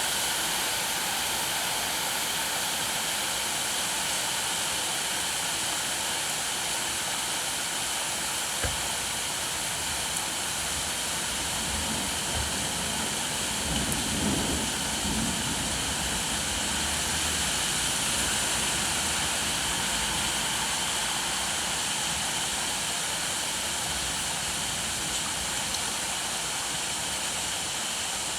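Steady rain falling, an even hiss. A low rumble swells and fades about halfway through.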